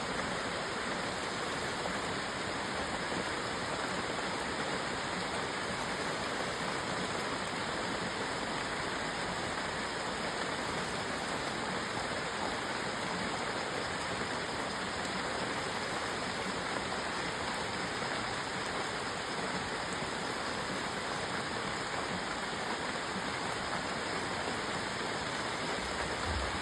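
Rain falling steadily: an even, continuous hiss of drops with no let-up.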